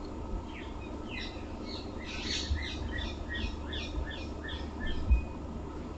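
A bird singing: a quick run of short, high, downward-sliding chirps, two or three a second, over about four seconds. A single dull thump comes near the end.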